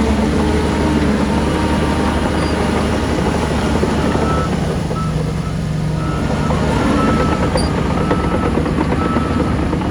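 Heavy diesel earthmoving machinery running steadily. From about four seconds in, a backup alarm beeps at an even pace, about once a second.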